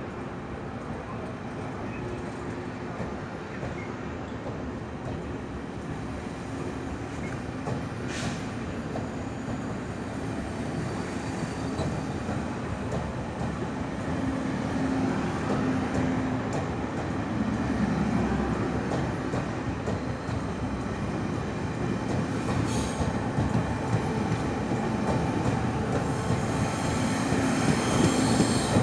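Train running on the rails with a steady rumble of wheels, growing louder as it draws nearer.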